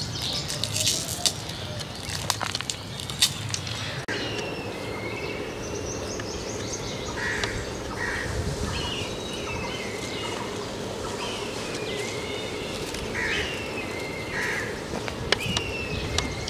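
Birds calling in short, repeated chirps over a steady background hiss, with a few sharp clicks and knocks in the first four seconds.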